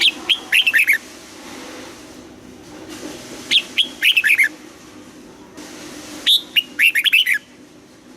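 Red-whiskered bulbul singing: three short, loud phrases about three seconds apart, each a quick run of clear notes falling in pitch.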